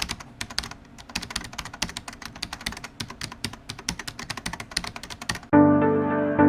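Rapid keyboard typing, a quick irregular run of clicks several a second, stopping about five and a half seconds in as keyboard-instrument music with a piano-like chord begins.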